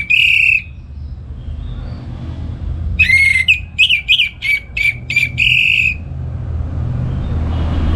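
Orange-headed thrush singing: a brief burst of clear whistled notes, then about three seconds in a longer phrase of quick repeated notes, over a low background rumble that grows near the end.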